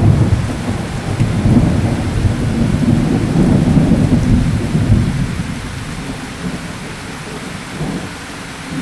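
Thunderstorm: steady rain with a long, deep rumble of thunder that swells through the first half and dies away, leaving the rain hiss.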